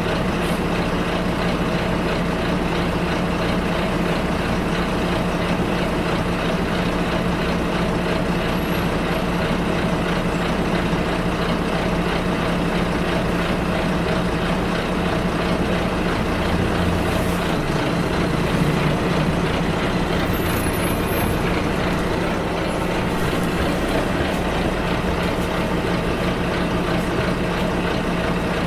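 Bus engine and road noise heard from inside the cabin during a ride: a steady drone whose low engine note shifts about two-thirds of the way through.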